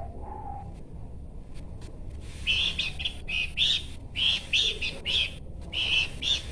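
Pelanduk semak, a Malacocincla babbler, singing: after a couple of seconds of low background hum, a run of short, rapid, high notes in quick clusters begins and carries on to the end.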